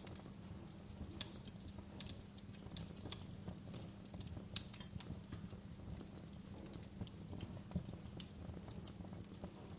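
Wood fire burning in a fireplace: a steady low rumble of the flames with irregular sharp crackles and pops from the logs, a few louder pops standing out.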